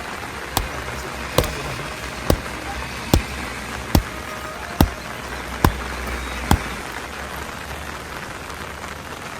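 A run of eight sharp knocks, evenly spaced a little under a second apart, over a steady hiss of rain. The knocks stop about two-thirds of the way through while the rain goes on.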